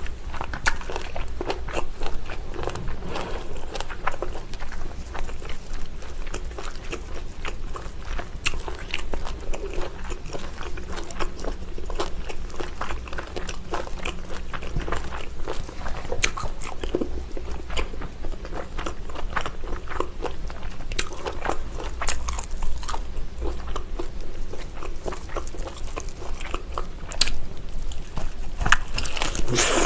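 Close-miked biting and chewing of a whole braised pig's trotter (jokbal), meat and skin torn from the bone by hand and mouth, with a continuous run of small clicks.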